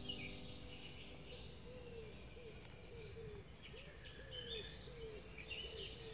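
Birds singing: many short high chirps and trills, with a lower hooked note repeated about twice a second from about two seconds in.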